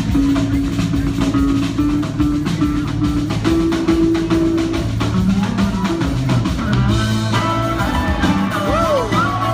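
Live band music: drum kit keeping a steady beat under held bass notes, with a lead instrument playing a line that bends in pitch from about seven seconds in.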